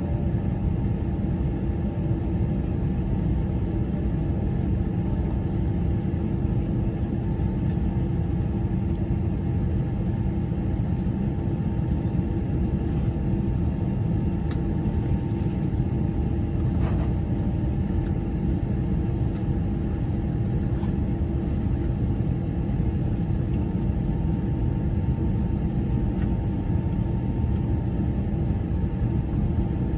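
Steady low drone inside the cabin of an Airbus A321 airliner, its engines and airflow running evenly with a constant hum.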